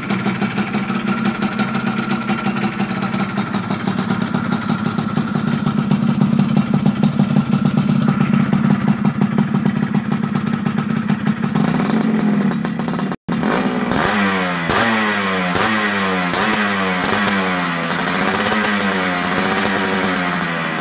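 Yamaha F1ZR two-stroke single-cylinder engine running through an aftermarket racing exhaust, held at a steady idle. After a short break about two-thirds of the way through, the throttle is blipped over and over, the pitch rising and falling with each rev.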